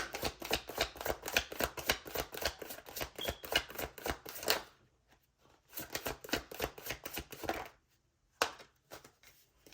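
A tarot deck being shuffled by hand: fast papery card clicks for about four and a half seconds, a short pause, a second shorter spell of shuffling, then a single snap of a card.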